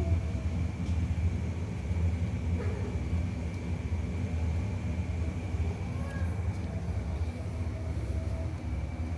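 Steady low rumble with a thin, constant high whine running over it.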